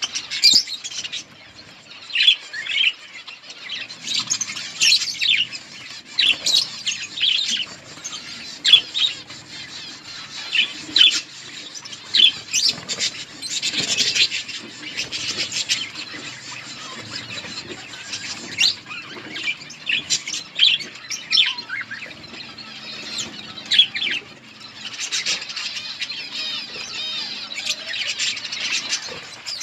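A flock of budgerigars chirping and chattering, with many overlapping short calls and warbles and occasional wing flaps.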